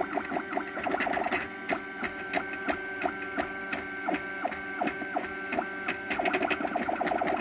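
MakerBot Thing-O-Matic 3D printer's stepper motors whining in short runs of steady tones that start, stop and change pitch several times a second as the print head moves back and forth, with small clicks between moves. The printer is laying down the top layers of the print.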